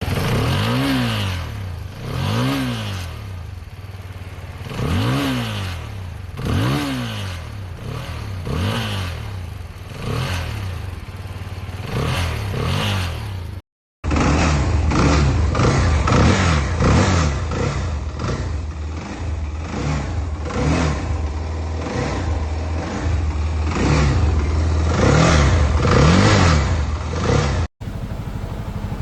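CFMoto 300SR single-cylinder engines revved with repeated short throttle blips, in two separate recordings with a cut about halfway and a third just starting at the end, each blip rising and falling in pitch over a steady idle with a light clatter. The first recording is a bike whose valve train is loose. The second is the one bike that runs properly.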